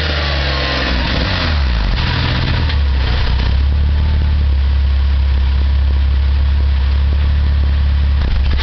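1999 Porsche 911 Carrera 2's 3.4-litre flat-six, breathing through custom Spintech mufflers, falling back from a throttle blip with one more short blip in the first couple of seconds, then settling into a steady idle with a low drone.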